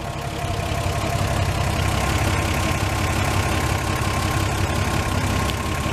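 Chevrolet 235 straight-six, fully warmed up, idling at about 600 RPM with an aftermarket lopey cam, set a little above the book idle to keep it smooth. A faint steady whine runs along with the idle.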